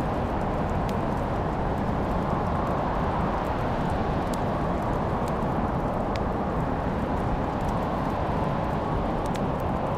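Wood fire crackling, with a few sharp, scattered pops over a steady low rushing noise.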